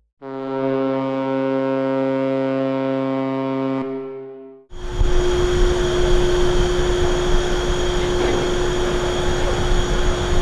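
A ferry's horn sounding one long steady blast of about four seconds. After a short gap comes a loud, steady rumble with a constant hum through it, the noise of the ship under way.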